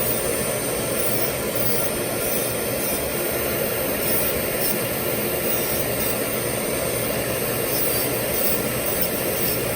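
Dental lab handpiece running steadily, grinding to contour a lower dental restoration, with a constant high whine over a steady rushing noise.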